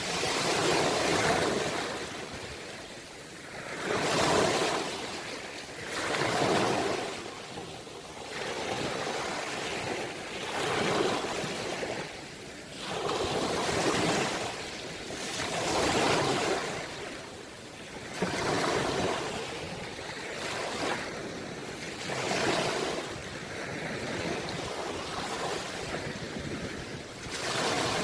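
Ocean waves breaking and washing ashore, the surf swelling and ebbing every two to three seconds.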